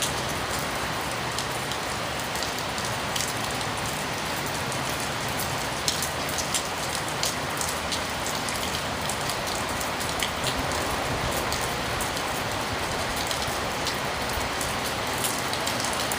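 Heavy rain falling steadily, with many sharp drops and drips ticking close by, over the constant roar of freeway traffic behind it.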